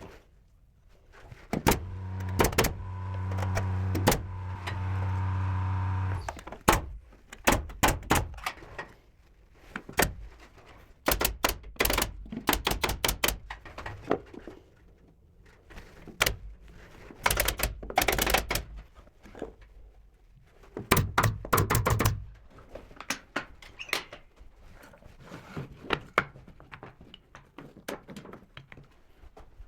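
Carpentry work on wood trim: a power tool motor runs steadily for about four seconds near the start, then many sharp knocks and clicks come in quick clusters, some of them loud.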